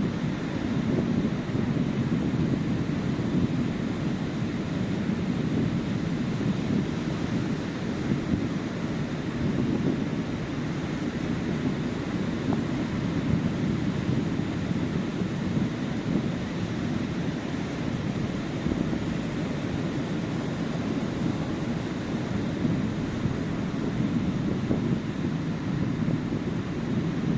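Sea surf breaking and washing on a sandy beach: a steady rush that swells gently every several seconds.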